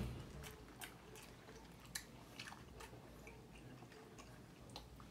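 Close-mouthed chewing of a mouthful of grilled chicken, with small wet clicks and smacks, and a single bump right at the start as a hand knocks and grabs a plastic tumbler.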